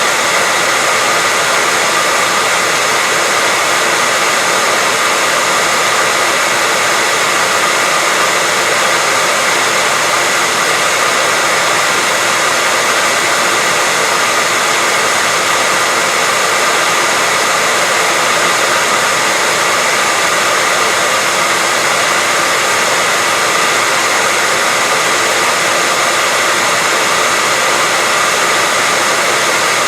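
Hair dryer blowing continuously: a loud, steady hiss of rushing air with a faint high whine from the fan motor.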